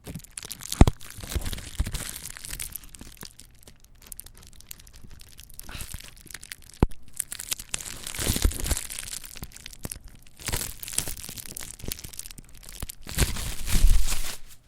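Packaging being crinkled and torn open by hand close to the microphone: irregular rustling and crackling with a few sharp clicks, loudest near the end.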